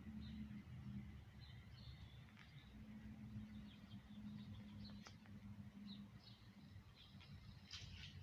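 Faint birds chirping now and then in short, scattered calls over a low steady hum.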